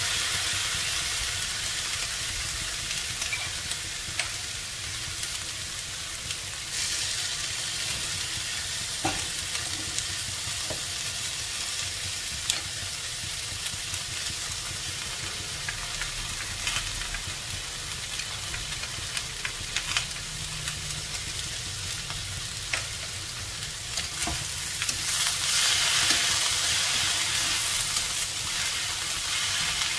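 Pork, mushrooms and Chinese long beans sizzling in a hot wok, with occasional sharp clicks and scrapes of a spatula against the pan. The sizzle swells about a quarter of the way in and again near the end as the mix is stirred.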